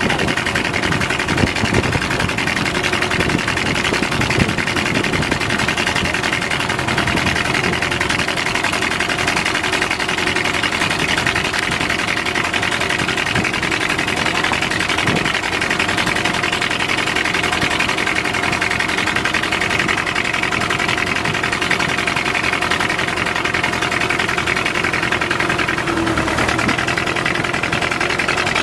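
Fishing boat engine running steadily with a fast, even chugging beat.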